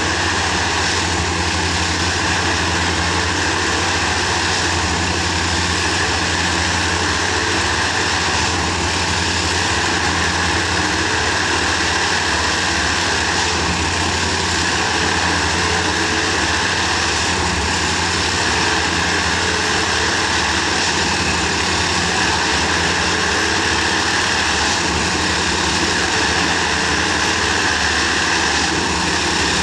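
Railway ballast tamping machine running steadily during track compaction: a heavy engine drone with a constant higher-pitched hum over it.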